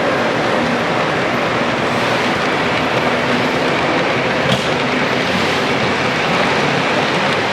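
Model train running on a layout track, a steady running noise with one sharp click about four and a half seconds in.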